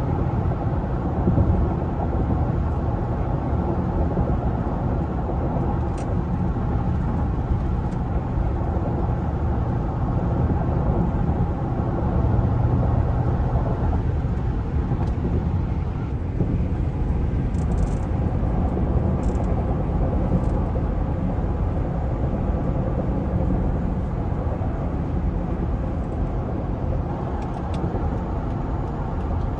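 2005 Cadillac Escalade with its 6.0-liter Vortec V8 on the move: a steady mix of engine and road noise.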